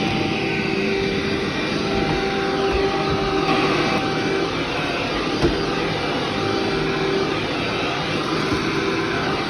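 Vacuum cleaner running steadily over carpet, a motor hum with a constant rush of suction and a sharp click about five and a half seconds in.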